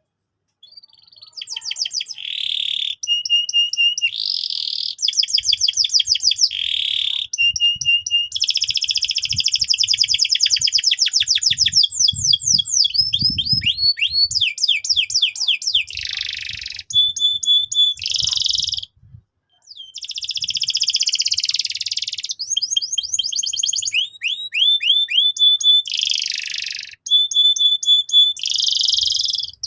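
Domestic canary singing a long, varied song of rapid trills, buzzy rolls and sweeping notes, phrase after phrase, with a brief break a little over halfway through.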